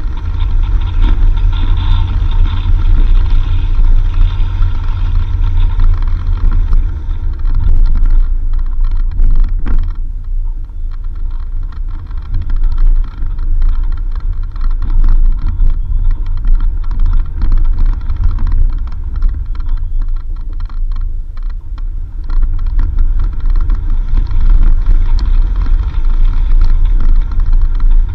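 A 4x4 vehicle driving on a dirt road: a loud, steady low rumble of engine and road noise, with scattered clicks and rattles.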